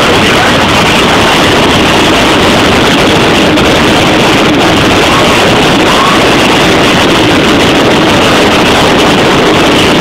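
Loud, harsh, steady rushing noise of the Nilgiri passenger hill train running, mixed with wind buffeting the microphone at an open carriage window.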